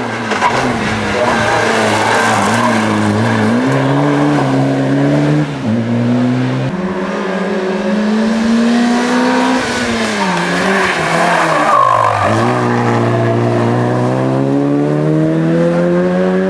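A rally car engine working hard through gear changes, its pitch stepping up and down. It falls away about ten seconds in, then climbs steadily as the car accelerates again.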